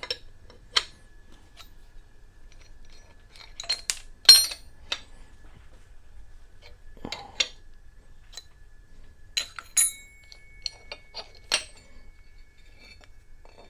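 Irregular metallic clinks and knocks of steel tools and fittings against the cast iron straight edge and mill as the workpiece is unclamped and handled. One strike about ten seconds in leaves a ringing tone that lasts a couple of seconds.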